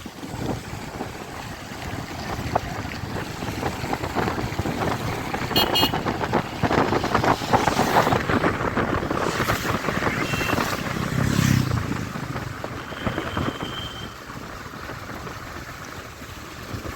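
Wind buffeting the microphone over road and vehicle noise during a motorcycle ride, with a brief high tone about 13 seconds in.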